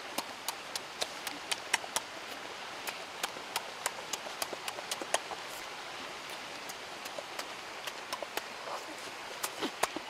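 Close-up chewing and lip-smacking while eating: irregular sharp mouth clicks, several a second, over a steady hiss, thinning out past the middle.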